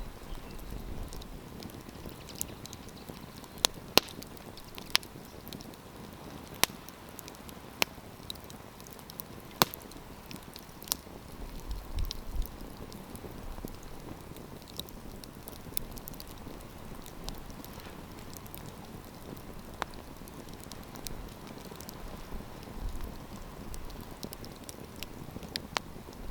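Wood campfire burning with a steady low rush and sharp, irregular crackles and pops, several clustered in the first ten seconds or so.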